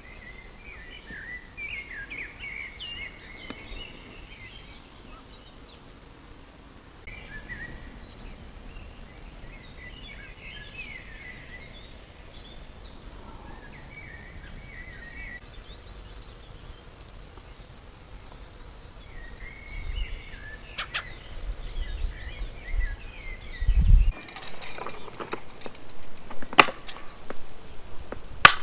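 Small birds chirping and singing in short scattered phrases over a still lake. About three quarters of the way through a low rumble comes in, then a string of sharp clicks and knocks, the loudest sounds, runs to the end.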